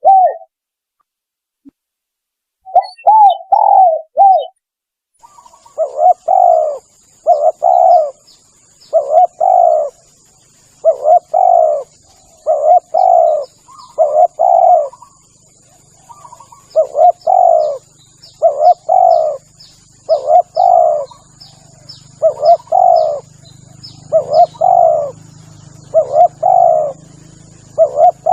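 Spotted dove (tekukur) cooing. After a near-silent second or two there is one short run of coos, then a string of repeated coo phrases every second or two.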